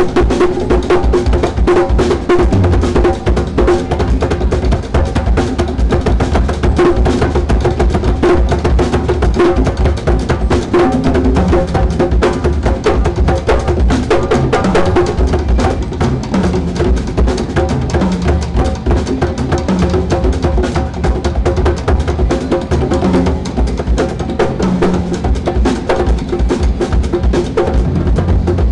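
Band music with a drum kit and hand percussion, dense rhythmic strikes over a moving bass line, loud and steady throughout.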